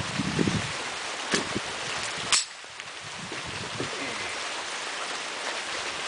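Steady rain hissing as it falls outdoors, with a few sharp clicks, the clearest one about two and a half seconds in.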